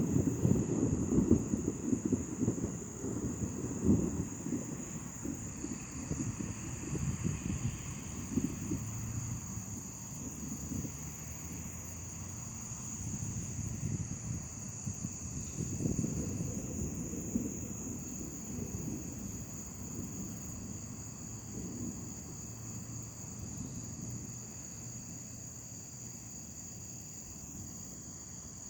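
Distant thunder rumbling and slowly dying away, swelling again briefly about two-thirds of the way in. Night insects chirr steadily in a high, even drone underneath.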